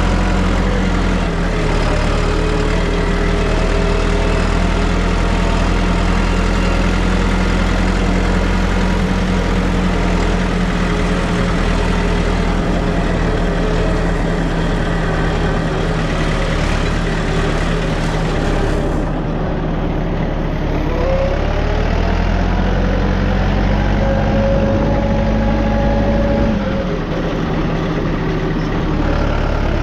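Tractor engine running steadily, its pitch shifting up and down a few times as the engine speed changes, dropping about two-thirds of the way through and rising again near the end.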